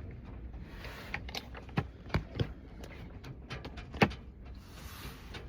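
Eating sounds: a few sharp clicks and taps, the loudest about four seconds in, between soft rustling.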